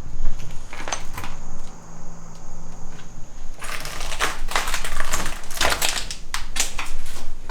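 Irregular clicks and crunches of footsteps over debris and trash on the floor, sparse at first, then coming thick and fast from about halfway.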